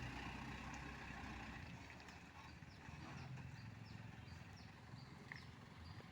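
Faint low rumble of a truck's engine creeping along, fading over the first couple of seconds, with a row of faint, evenly spaced high ticks behind it.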